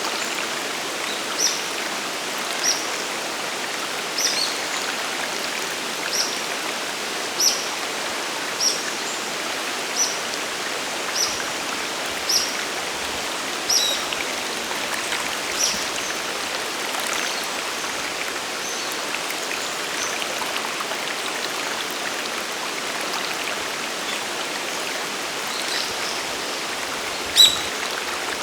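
Sagiri Falls and its mountain stream rushing steadily. Over the water, a bird repeats a short high chirp about once every second and a quarter through the first half. Two louder calls come near the end.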